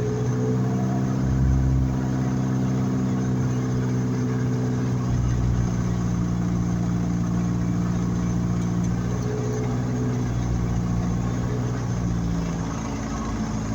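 Light aircraft engine running steadily with a constant droning pitch, easing off slightly near the end.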